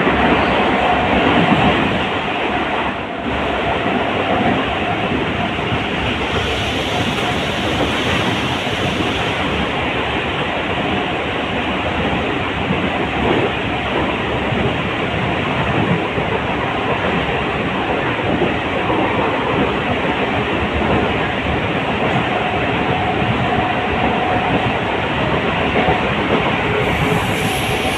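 Mumbai local electric multiple-unit train running, a steady loud noise of wheels on the rails with some clickety-clack. A faint thin whine is heard in the first second or so and again near the end.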